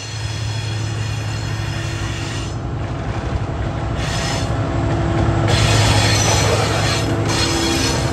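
Freight wagons rolling past with a steady low rumble, their steel wheels squealing high-pitched in spells that break off about two and a half seconds in and return after about four seconds.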